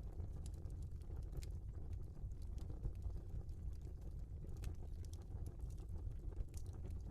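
Wood fire burning in a fireplace: scattered sharp crackles and pops from the burning logs over a steady low rumble of the flames.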